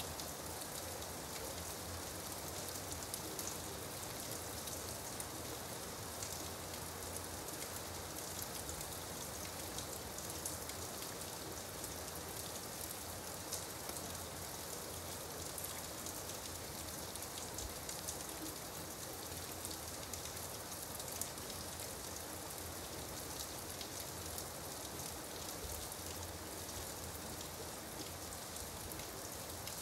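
Light rain falling steadily: an even hiss of rain with a dense scatter of small drop ticks.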